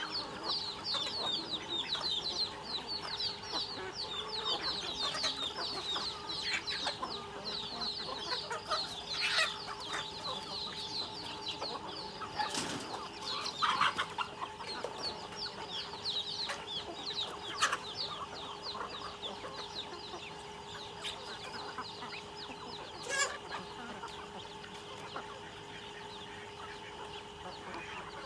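Chickens feeding, calling constantly with many quick, high, falling chirps that thin out in the last third, plus a few sharp clicks. A steady faint hum runs underneath.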